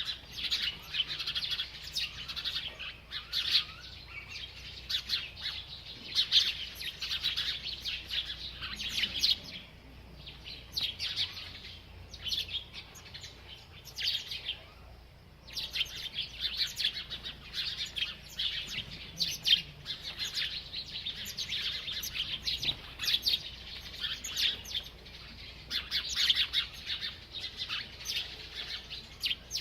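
A small bird chirping in rapid, dense runs of high chirps, with a short pause about halfway through.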